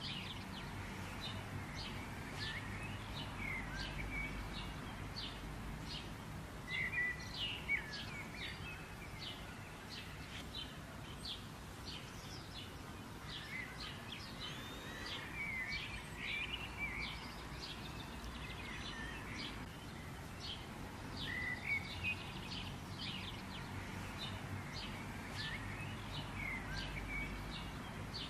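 Small birds chirping and twittering, with many short high chirps and a few quick warbled phrases, over a steady low rumble of outdoor background noise.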